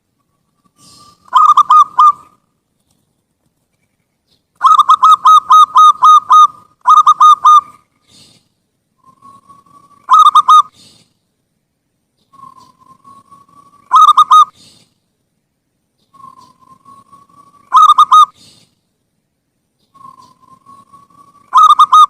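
Zebra dove (perkutut) cooing in repeated phrases, one about every four seconds. Each phrase is a soft rising note followed by a quick run of loud staccato coos. There is a longer run of coos from about five to eight seconds in.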